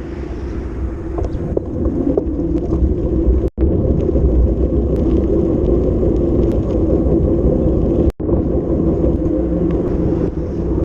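Wind buffeting the phone's microphone while riding a bicycle at speed, a steady low rumble that drops out for an instant twice.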